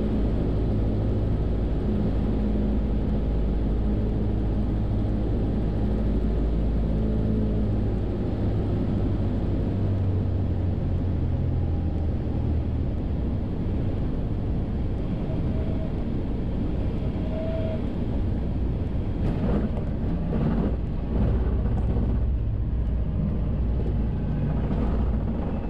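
Cessna 172's piston engine and propeller droning steadily in flight, its tone shifting slightly about eight seconds in. A few faint clicks come around twenty seconds in.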